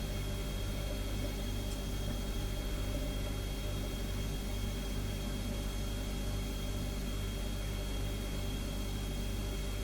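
Refrigerator humming steadily: a low, even motor hum with a thin high whine over a soft hiss, unchanging throughout.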